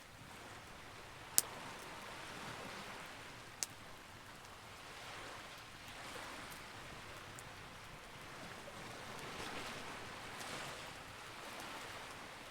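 Campfire burning with a steady crackling hiss and two sharp, loud pops, about one and a half and three and a half seconds in.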